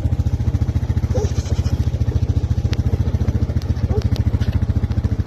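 Quad bike engine running steadily at a fast, even pulse.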